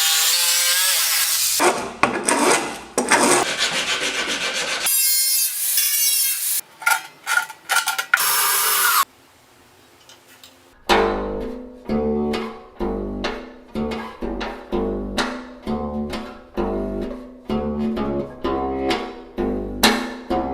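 Woodworking and metalworking sounds in quick succession: power-tool grinding, then sawing and rasping on wood. About eleven seconds in, a homemade two-string fretless acoustic bass with a washing-machine-drum body is plucked, playing low notes at a steady pace.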